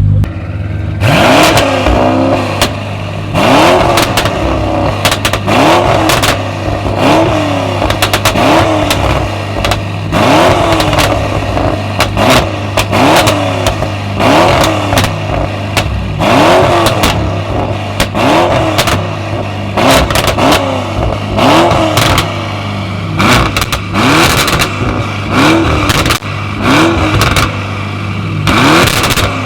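A tuned car's engine revved over and over while parked: about twenty short, sharp blips of the throttle, roughly one every second or so, each rising and dropping back to a steady idle between them.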